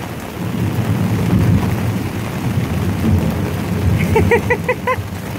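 Heavy rain pouring down, a dense steady downpour with a deep rumble. About four seconds in, a quick run of about six short high-pitched notes rises above it.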